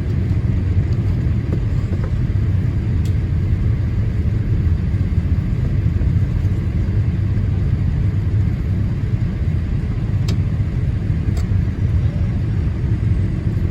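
Steady low rumble of a Boeing 787-8 Dreamliner's engines and airflow heard inside the cabin during the descent on approach, with a few faint ticks.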